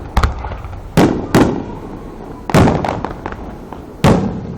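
Fireworks exploding: about five loud booms in quick succession, each trailing off in a rumbling echo.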